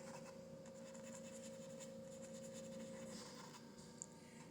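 Faint scratching of a paintbrush working acrylic paint on canvas, over a steady hum that stops about three seconds in, with a small click near the end.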